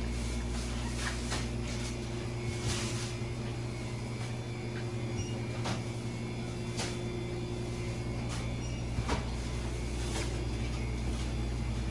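Steady low hum of shop refrigeration, the freezers and chiller cabinets, with scattered light clicks and knocks. One of the higher hum tones stops about eight seconds in.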